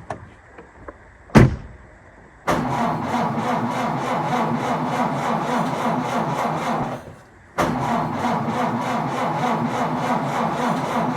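A sharp thump about a second in, then two tries of about four and a half seconds each at starting a car: the starter clatters rapidly and the engine never catches, the sign of a dead battery.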